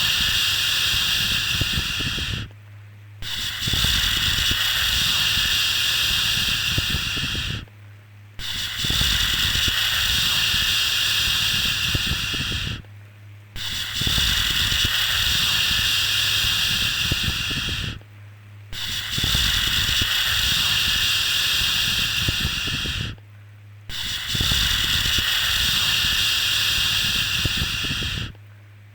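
A steady 'shhh' shushing sound for settling a baby, repeated in a loop: each shush lasts about four and a half seconds and is followed by a pause of under a second, with a low hum underneath.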